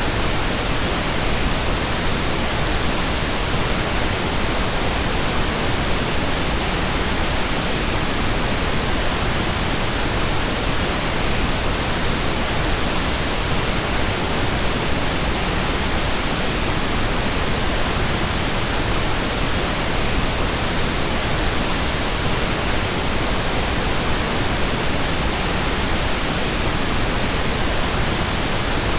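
Steady, unchanging pink noise: an even hiss spread across all frequencies, with more weight in the lows than white noise has.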